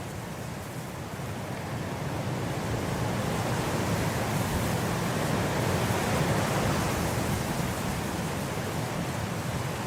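Blizzard wind blowing as a steady rushing noise, swelling into a gust about halfway through and easing a little near the end.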